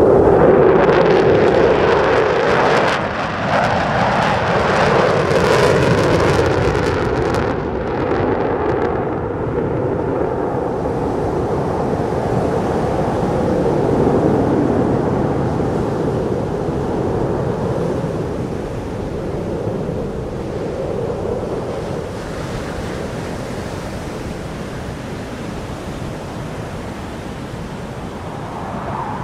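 Fighter jet engine roar with no clear pitch, loudest at the start and slowly fading as the jet moves away.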